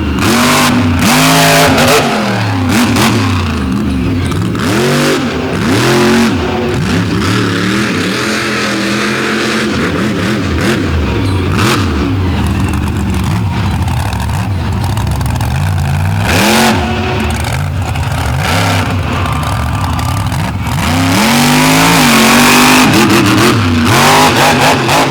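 Monster truck engine revving hard during a freestyle run, its pitch climbing and dropping again and again, with frequent sharp bangs; the sound grows louder and noisier near the end.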